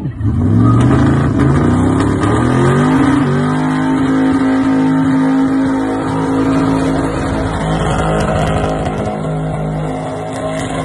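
V8 engine of a Mk2 Ford Escort doing a burnout. The revs climb over about three seconds in a slow tip-in of the throttle, then hold steady at high rpm with small dips while the rear tyres spin.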